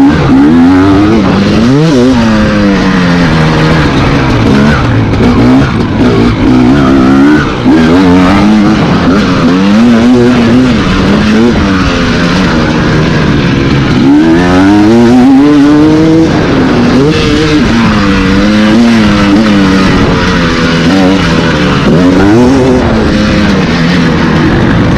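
Motocross dirt bike engine revving hard, its pitch climbing and dropping every second or two as the throttle is opened and shut and gears change.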